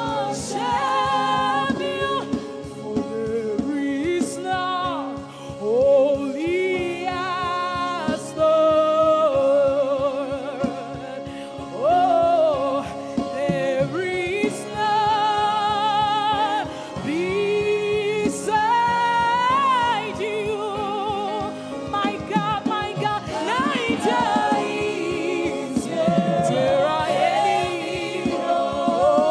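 Gospel worship singing: a vocalist sings with heavy vibrato and sliding runs over sustained chords, with choir voices joining in.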